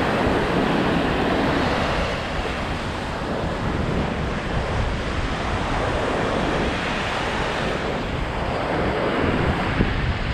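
Lake waves washing in on the shore, surging and easing every few seconds, with wind buffeting the microphone.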